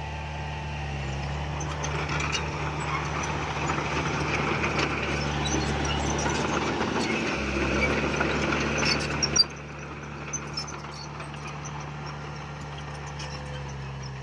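Heavy diesel earthmoving machinery running steadily, with a louder rattling, grinding noise of the machine working soil from about two seconds in that cuts off suddenly about nine seconds in, leaving the engine running more quietly.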